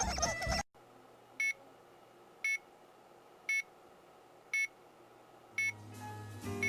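Music cuts off abruptly, then five short electronic beeps sound about a second apart over a faint steady hum. Music starts again near the end.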